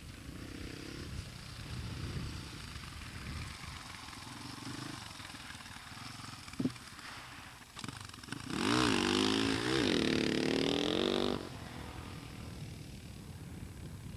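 Husqvarna 610 single-cylinder four-stroke dirt bike running at a distance, then loud and close for about three seconds from the middle on, its engine revving up and down before the sound cuts off abruptly.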